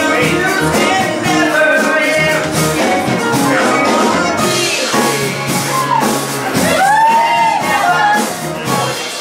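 A live band playing a rock song, with a lead vocalist singing over it.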